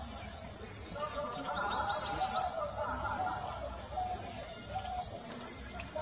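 Bird calling: a quick run of about a dozen sharp, high chirps over about two seconds near the start, with softer, lower calls underneath.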